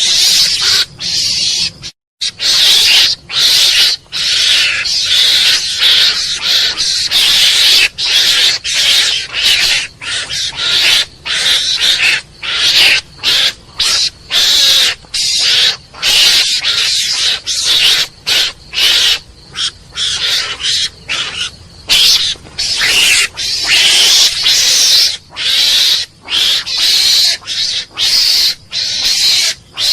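Mongoose calling: a long run of short, harsh, high-pitched chattering calls, a few a second, with brief breaks between them.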